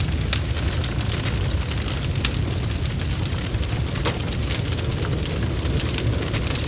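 Fire crackling steadily: a low rumble of burning with frequent sharp pops and snaps at irregular intervals.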